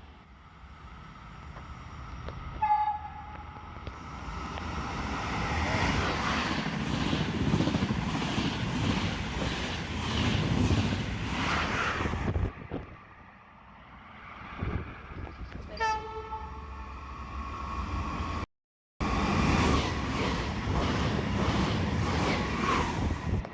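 A train passing close by with a loud, building rumble of wheels on rails, and two short blasts of its horn, one a few seconds in and one about two-thirds of the way through.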